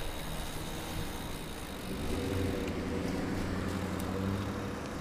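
A motor vehicle's engine running close by in street traffic, its low steady hum growing louder about two seconds in.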